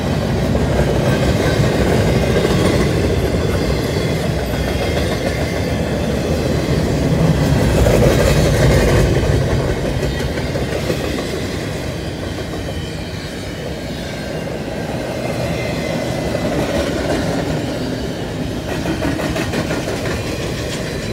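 Double-stack container well cars of a freight train rolling past, steel wheels running on the rails in a steady rumble. It swells to its loudest about eight seconds in, then eases off.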